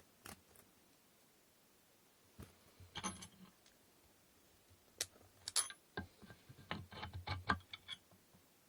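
Small clicks and knocks of inkle loom parts being handled and fitted together during assembly: a few scattered taps, then a quick run of knocks in the second half.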